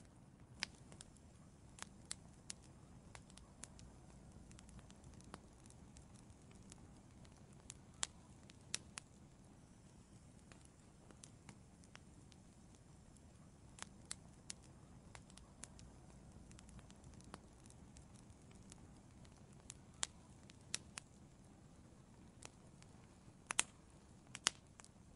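Wood fire burning in an outdoor fireplace: a soft low hiss of flames under irregular sharp crackles and pops of burning wood, with a few louder pops near the end.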